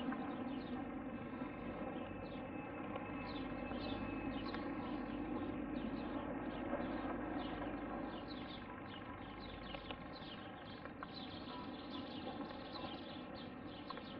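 A steady distant aircraft engine drone, easing off about eight seconds in, with birds chirping rapidly and repeatedly over it.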